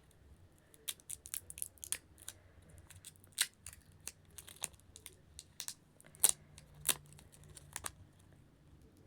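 Earbud packaging being handled and opened by hand: an irregular run of sharp crinkles and clicks, loudest twice around six and seven seconds in.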